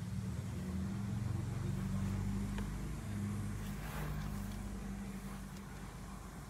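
Hyundai car's engine idling, heard from inside the cabin as a steady low hum. A brief rustle about four seconds in.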